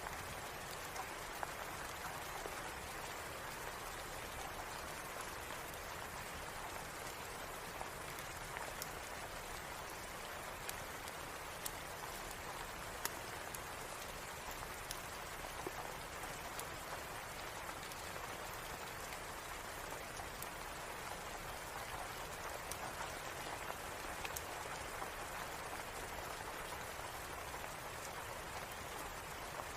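Steady rain: an even hiss with scattered sharp little ticks of individual drops.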